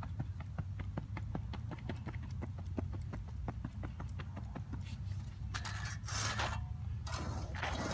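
Rapid, even knocks, about four a second, of a hand tamper packing moist clay into a hole in a pitching mound, then two longer scraping strokes across the clay near the end.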